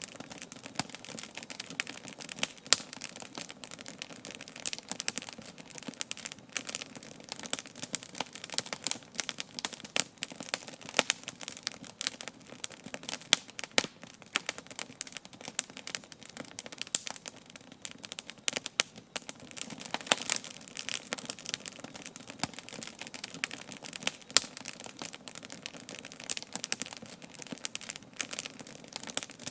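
Campfire crackling, with irregular sharp pops and snaps coming several times a second over a soft steady hiss.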